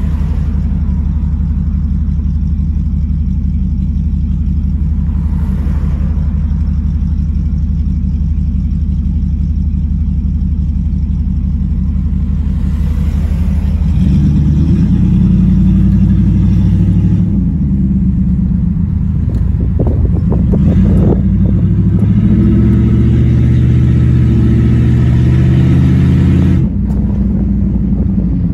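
Jeep Grand Cherokee ZJ's full-bolt-on 5.9-litre V8, heard from inside the cab, idling steadily at a stop, then accelerating away about halfway through. The engine note steps several times as it picks up speed, and it eases off near the end.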